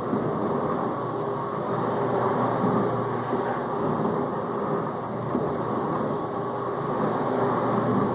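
Whirlpool dishwasher's pump circulating water through the spray arms during the final rinse, with rinse aid dispensed: a steady low hum under the wash of water spraying and splashing inside the tub.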